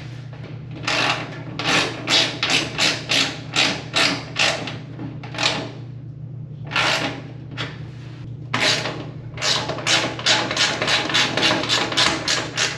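Rapid, repeated strokes of a hand tool on the dryer's metal roller mounts, about two to three a second, with a brief pause midway, as a stuck drum support roller is worked loose. A steady low hum runs underneath.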